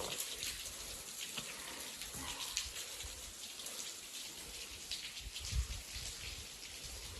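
Water trickling and dripping, with scattered low thumps, one stronger about five and a half seconds in.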